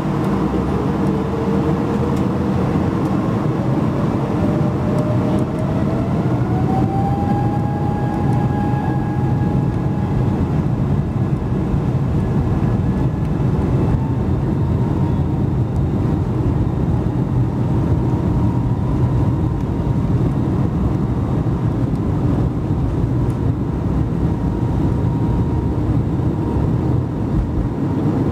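The Airbus A220-100's Pratt & Whitney PW1500G geared turbofan engines, heard from inside the cabin, spooling up to high thrust. Their whine rises in pitch over the first several seconds, then holds a steady tone over a loud, even roar.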